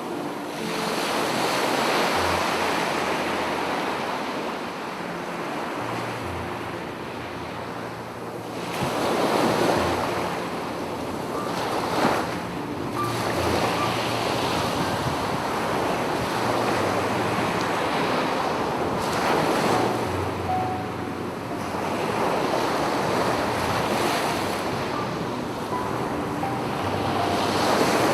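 Sea waves breaking and washing up a beach, swelling into a louder surge every few seconds, with wind buffeting the microphone.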